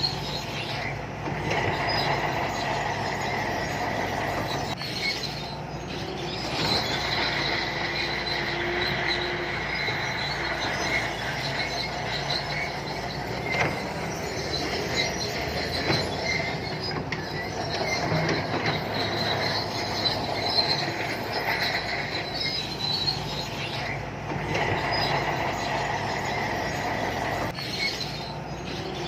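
Shantui crawler bulldozer at work: its diesel engine running steadily under a high-pitched squeal from its steel tracks, with brief dips in level a few times.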